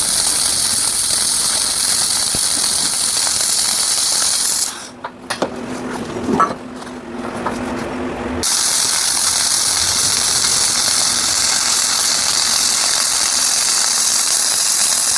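Electric arc welding on a steel axe blade: the arc runs with a steady hiss for about five seconds, stops for a few seconds with a few light clinks, then strikes again and runs steadily to the end. A heavy bead is being laid on the blade's neck.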